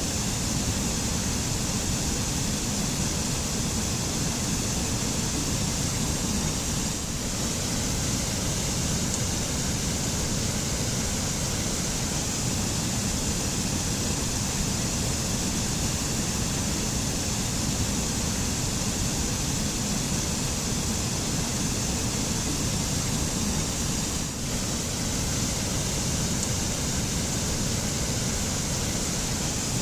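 Waterfall: steady rushing, splashing water, an even hiss with no breaks apart from two slight momentary dips.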